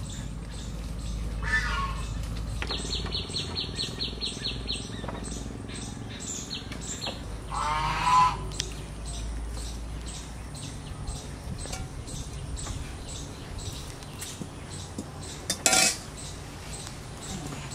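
Birds calling outdoors, among them a fast, even trill of high ticks lasting about two seconds, with small clicks and clinks throughout and one sharp clank of metal cookware near the end.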